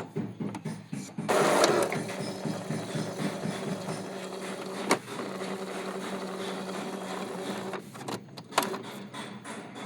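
Epson L-series inkjet printer mechanism running, a steady motor hum with sharp clicks and a louder noisy burst near the start.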